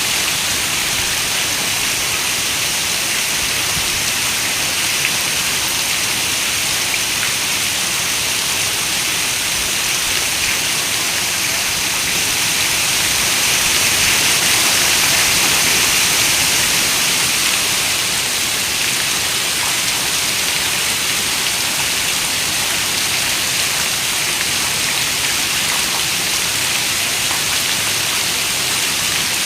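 Heavy rain falling steadily on a window: a dense, even hiss that swells slightly about halfway through.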